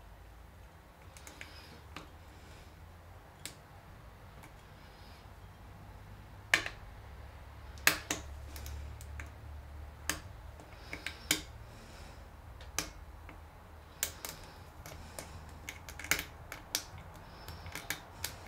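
Irregular sharp clicks of a lock pick working the pin tumblers of a Lockwood padlock during single pin picking, sparse at first and more frequent from about six seconds in, the loudest two near six and a half and eight seconds. A low steady hum runs underneath.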